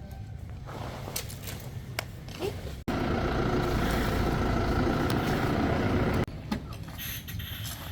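Heavy machine's engine running steadily and loud for about three seconds, starting and stopping abruptly, with a few light knocks in the quieter stretches before and after.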